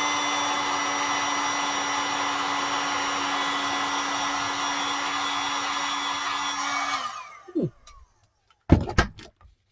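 Embossing heat tool blowing steadily with a steady motor hum as it melts embossing powder, then switched off about seven seconds in and whirring down. Two sharp knocks follow near the end.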